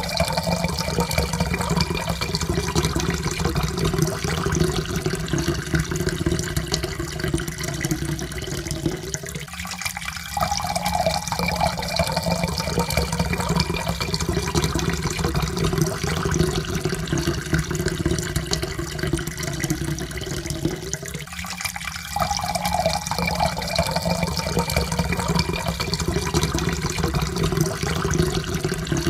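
Water poured steadily into a cup, splashing, with a faint tone that slowly rises in pitch as the cup fills. The pour breaks off briefly and starts over twice, about 10 and 21 seconds in.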